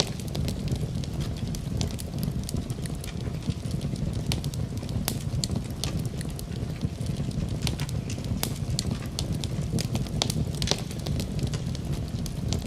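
Wood fire burning in a fireplace, crackling with sharp, irregular pops and snaps over a steady low rumble.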